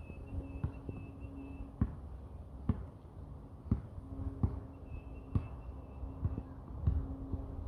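A series of sharp knocks or thumps at irregular intervals about a second apart, with a faint steady hum that comes in twice and fades.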